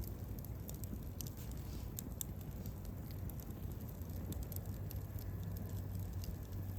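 Wood campfire burning, with scattered small crackles and pops over a low steady rumble of the flames.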